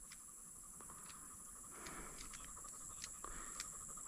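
Faint field ambience: a steady high insect drone and a fast insect trill, with a dog panting softly now and then.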